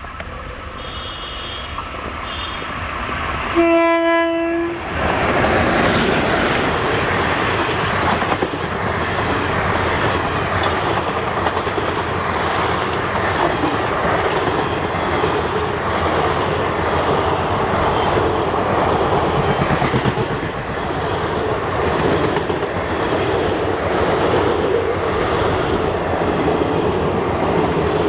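An electric-hauled Indian passenger train approaches and sounds a single horn blast of about a second, about four seconds in. Its coaches then pass close by with a loud, steady rumble and a rhythmic clatter of wheels over the rail joints.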